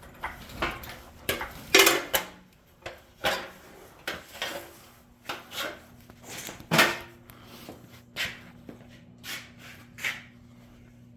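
Irregular scraping, rubbing and knocking, about fifteen short sharp strokes, as garage door spring and cable hardware is handled. A faint steady hum comes in about five seconds in.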